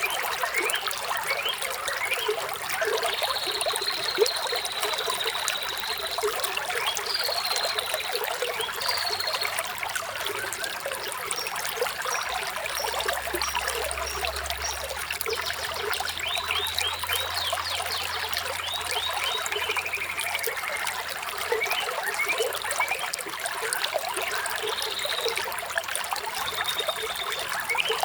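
Water trickling steadily, with birds chirping on and off above it: short high whistled notes and glides, and a quick run of repeated chirps a little past the middle.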